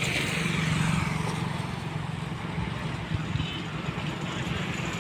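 A motor engine running steadily with a low hum, under outdoor background noise.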